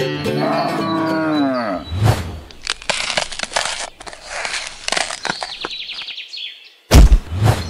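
A cow mooing once, its call falling in pitch, followed by a run of crunching, crackling noises and then a heavy thump near the end, the loudest sound.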